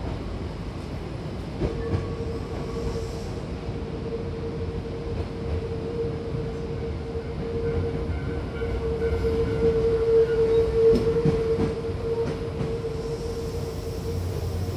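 Hankyu commuter train heard from inside the car as it runs: a low rumble of wheels and running gear, with a steady whine at one pitch that starts a couple of seconds in and is loudest about ten seconds in.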